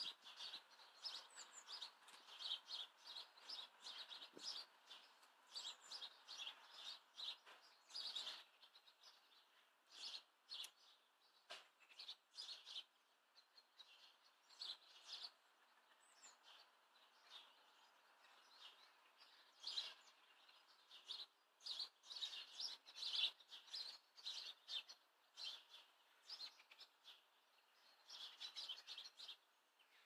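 Small birds chirping in quick, busy bursts of short, high notes. The chirping thins out for a few seconds in the middle and picks up again after that.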